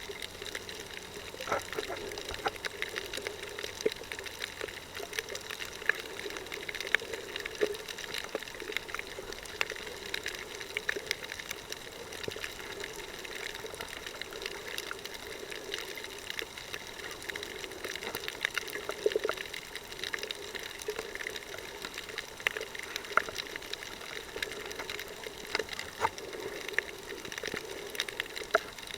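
Water noise heard by a camera underwater while snorkeling: a steady wash with many small clicks and crackles scattered throughout.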